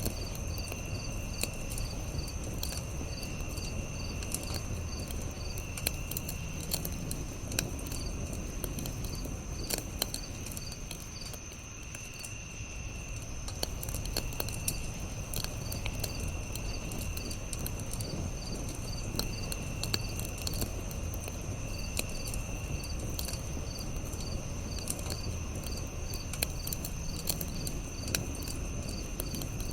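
Campfire crackling with scattered sharp pops over a low, steady rumble, while insects chirp throughout: a constant high trill, a fast pulsing chirp, and a lower chirp about a second long that repeats roughly every two seconds.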